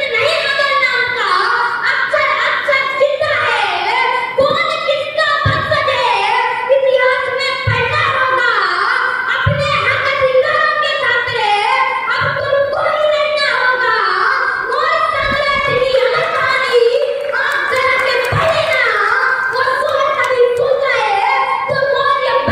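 A child's high voice singing verses unaccompanied in a flowing melody, with a few brief low thumps.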